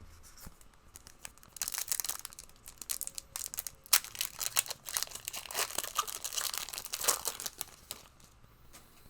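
Monopoly Prizm trading-card booster pack wrappers being torn open and crinkled, a dense crackling rustle that starts about a second and a half in and dies away near the end.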